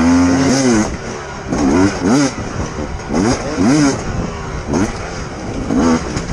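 Motorcycle engine revving: held high at first, dropping about a second in, then blipped up and down about six times in quick throttle bursts.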